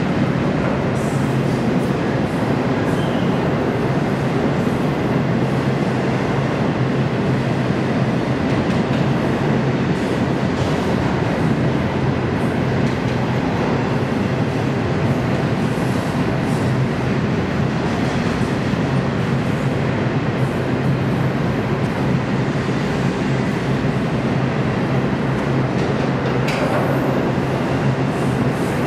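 Double-stack intermodal freight cars rolling steadily past: the continuous rumble of steel wheels on rail, with faint scattered clicks.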